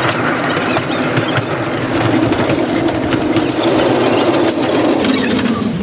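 A vehicle running steadily, with a constant mechanical drone and scattered rattling clicks.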